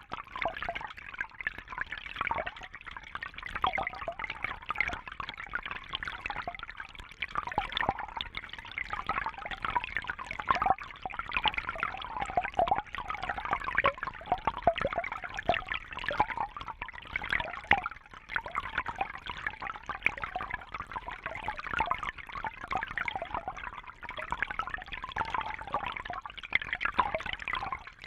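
Water trickling and bubbling continuously: a steady run of small, irregular gurgles and splashes with no rhythm.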